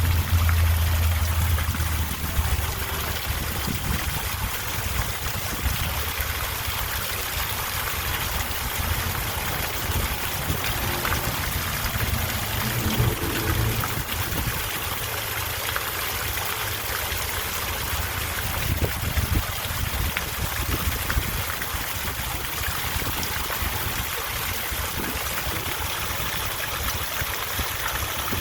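Water trickling and splashing steadily from a garden water fountain.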